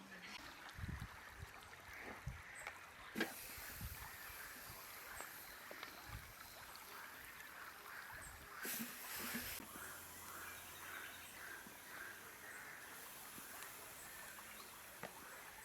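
Faint outdoor riverside ambience with birds chirping over a soft steady hiss, and a few soft knocks in the first few seconds.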